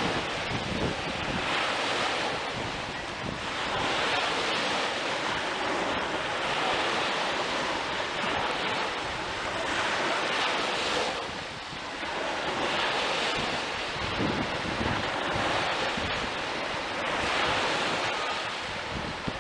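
Sea waves washing onto the shore in a steady rhythm, one surge every two to three seconds, with wind buffeting the microphone.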